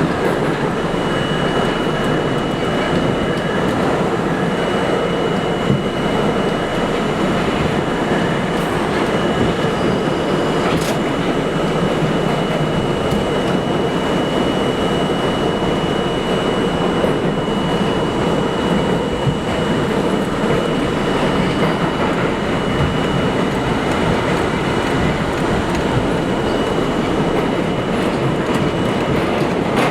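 New York City subway train running: a steady loud rumble and rattle of the car on the rails, with a thin high whine held from about a second in until near the end.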